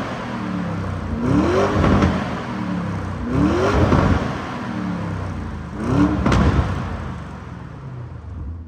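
Lamborghini Urus twin-turbo V8 revved three times while stationary, each rev rising and falling in pitch, then settling back toward idle near the end.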